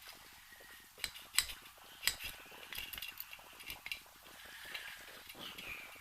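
Small metal brake parts and tools clinking and tapping against each other on a workbench as a brake assembly is taken apart. There are a few sharp clinks about one and two seconds in, then lighter scattered ticks.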